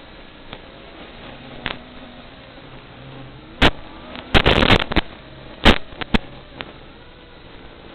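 FPV quadcopter's motors whining faintly, their pitch gliding up and down, broken by several loud, sharp crackles, the biggest cluster about halfway through.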